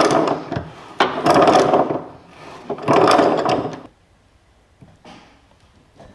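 Three scraping, rubbing strokes about a second apart, each lasting about a second, followed by quiet from about four seconds in.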